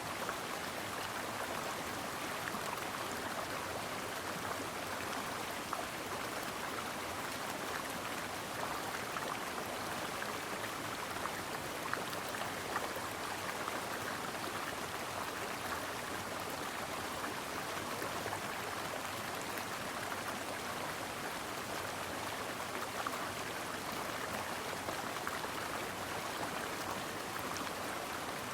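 Stream water running over rocks: a steady rush with small splashes and trickles.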